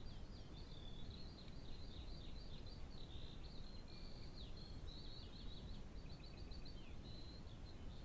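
A songbird singing faintly, a continuous, varied run of quick high chirps, down-sweeping notes and short trills, over a steady low background rumble.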